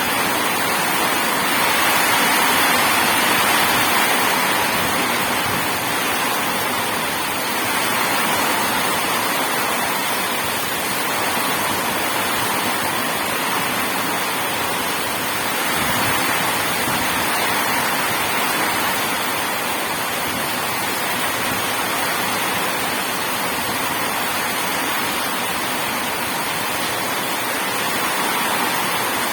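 Steady heavy rain hissing evenly, swelling a little louder a couple of times.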